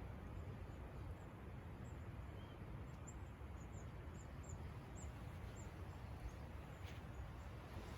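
Faint, thin, high calls of a small bird, repeated quickly about two a second, over a steady low outdoor rumble. A single sharp click comes near the end.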